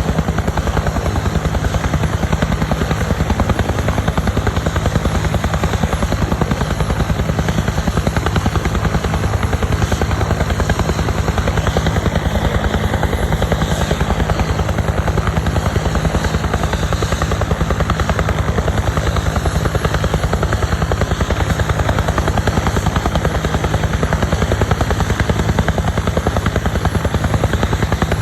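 Bell UH-1 Huey helicopter running steadily and loud, its turbine engine and two-bladed main rotor giving a rapid, even beat.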